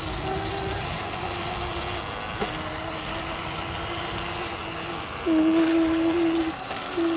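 Electric dirt bike motor whining at a steady pitch over a low rumble. The whine gets much louder for about a second about five seconds in, and again briefly at the very end.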